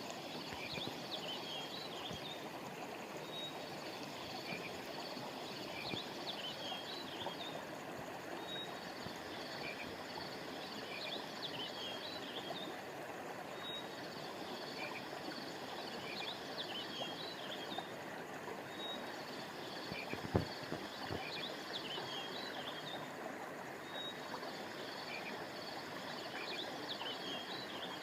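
Steady rush of flowing river water under high chirping calls from small animals. The calls repeat in a cycle of about five seconds, and a single low thump comes about twenty seconds in.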